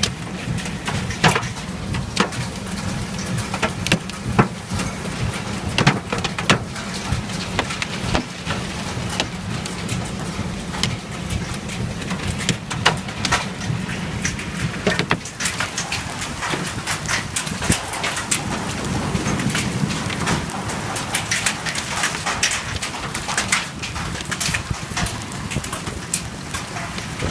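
Downpour of rain and hail: a steady hiss dotted with frequent sharp, irregular hits of stones and heavy drops striking a hard surface.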